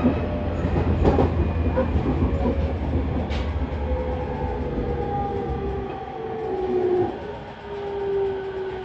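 Electric train running: a JR 209 series 2100-subseries commuter EMU, heard from on board. Its traction motors whine in a tone that slides steadily down as the train slows. The wheel rumble fades away, with a few sharp clicks from the wheels over rail joints near the start.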